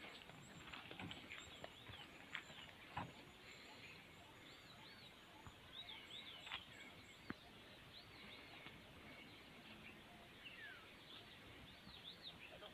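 Faint chirping of small birds: short arched calls repeated on and off, with a few scattered faint clicks.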